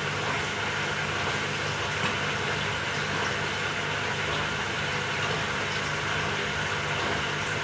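Samsung 6.5 kg top-loading washing machine running mid-cycle: a steady, even mechanical whir with a constant low motor hum.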